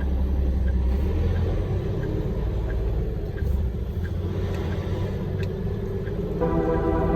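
Steady low rumble of a large truck's engine and running gear while driving. Music comes in near the end.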